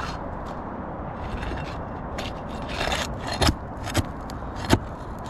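Flat bar scraping and prying under brittle, granule-shedding asphalt shingles to work roofing nails loose, with several sharp clicks in the second half.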